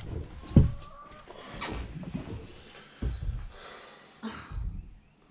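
Knocks and clunks of parts and tools being handled during a motorcycle rear-wheel job: a sharp knock about half a second in, then a few more at roughly one-second intervals.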